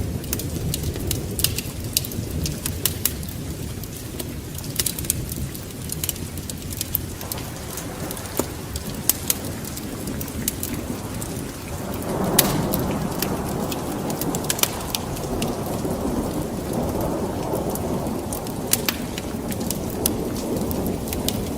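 Steady rain with a low rumble of thunder and many sharp crackles and drops. Just past halfway, a louder rolling swell of rumble comes in and holds.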